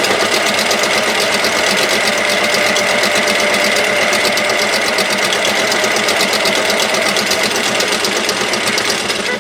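Toy washing machine running its spin (wringing) cycle: a steady, really loud whirring rattle with a held high whine.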